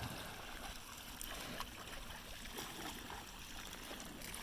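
Faint water lapping and trickling around an inflatable kayak, with a few light knocks.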